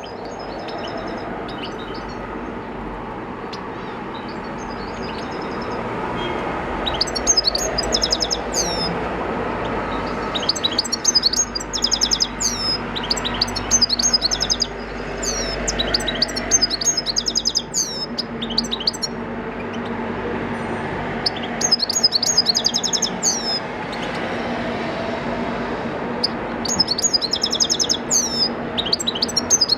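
European goldfinch singing in about five bursts of rapid, tinkling twitter with short gaps between them, over a steady background rumble.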